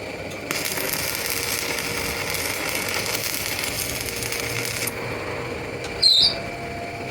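Steel truck axle turning in a lathe as the cutting tool scrapes along it with a steady hiss for about four seconds, then stops abruptly. About a second later comes a brief, loud, high-pitched metallic sound.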